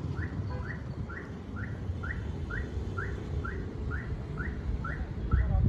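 A bird calling: a short high chirp repeated very evenly about twice a second, over a steady low rumble.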